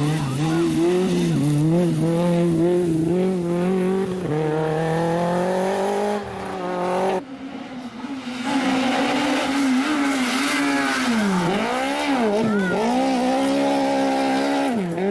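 Rally car engines revving hard, their pitch rising and falling with throttle and gear changes as the cars drive the stage. The sound drops off suddenly about seven seconds in, and another engine comes in about a second later.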